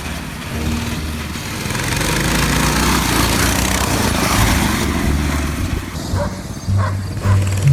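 Coleman BT200X mini bikes' small single-cylinder engines running on a race track, their pitch rising and falling as the riders work the throttle.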